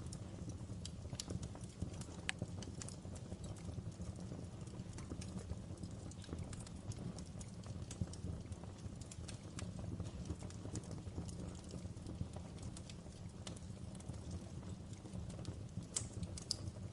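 Wood fire crackling in a fireplace: a steady low rumble with scattered pops and snaps, and a sharper pop near the end.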